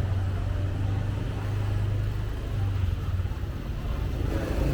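A motor vehicle engine running with a steady low hum, over general street noise.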